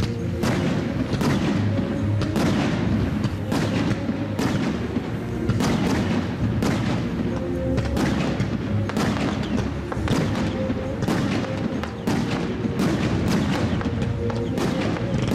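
Aerial fireworks shells bursting in quick, irregular succession, roughly one or two bangs a second, over music.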